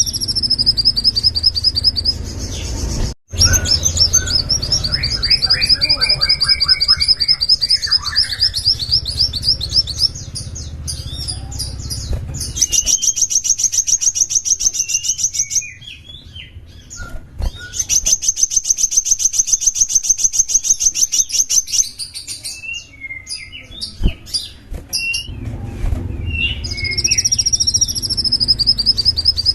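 Small songbird singing long, high, rapid trills of evenly repeated notes, each run lasting several seconds, with short chirps between runs and a low hum underneath.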